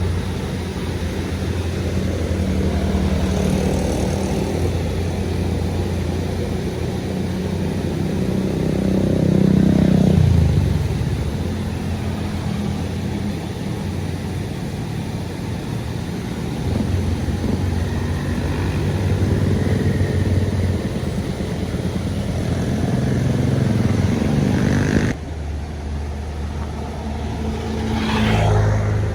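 Engines of large road vehicles, buses and trucks, running as they pass along a mountain road, the engine note swelling and falling as each goes by and loudest about ten seconds in. The sound changes abruptly about 25 seconds in.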